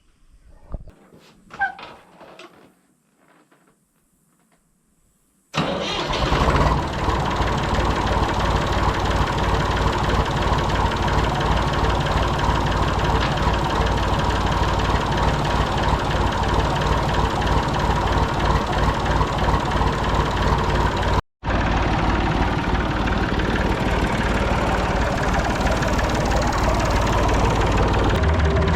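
Massey Ferguson 245's Perkins three-cylinder diesel engine comes to life about five and a half seconds in, then runs steadily with a fast, even diesel beat.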